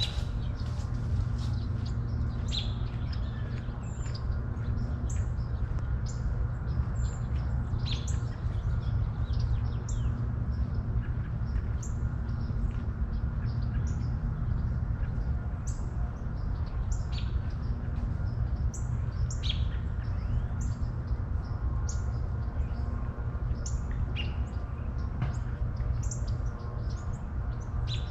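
Songbirds chirping in many short, scattered calls over a steady low rumble.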